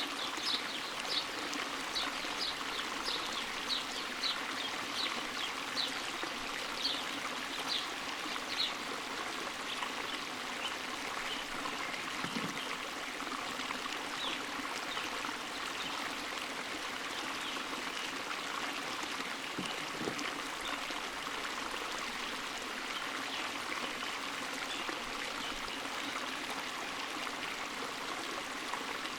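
Creek water flowing steadily over stones. A bird calls in a quick series of short, high chirps, about two a second, for the first nine seconds or so.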